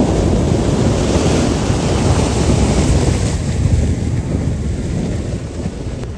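Loud rushing floodwater with wind buffeting the microphone. A low rumble runs throughout, and the hiss on top eases about three seconds in.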